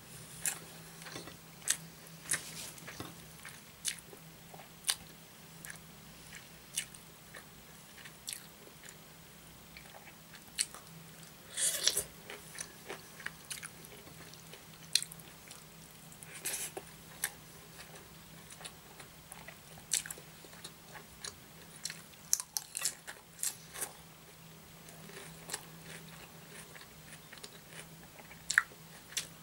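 Close-miked mouth chewing with sharp, irregular wet smacks and crunches as a hand-eaten meal of rice, curry and fresh salad is chewed. A faint steady low hum sits underneath.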